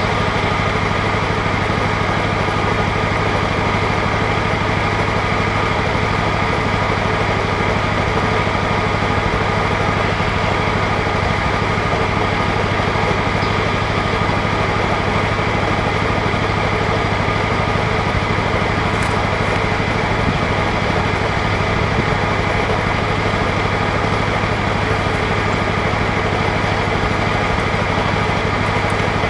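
John Deere LX172 lawn tractor engine idling steadily after a cold start.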